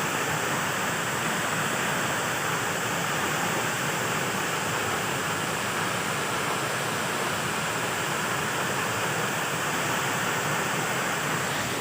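A large waterfall: a steady, even rush of falling water.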